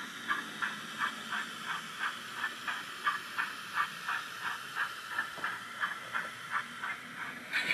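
Factory-fitted sound decoder of an OO-gauge Rapido Hunslet 16in 0-6-0 saddle tank model playing steam-locomotive exhaust chuffs over a steady hiss through its small speaker, an even beat of about three chuffs a second as the model runs.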